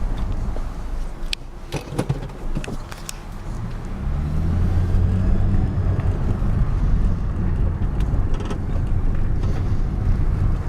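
A 1999 Chevrolet Malibu LS on the move, its engine and road noise steady. The sound eases off at first, then the engine pulls harder with a rising tone about four seconds in. There are a few sharp clicks and knocks in the first three seconds.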